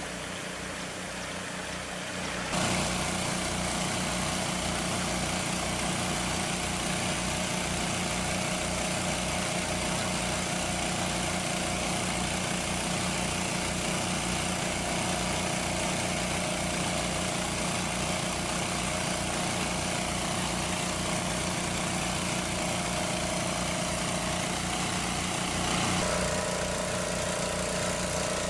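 Small engine running steadily with an even low throb; it gets louder about two and a half seconds in and shifts in tone near the end.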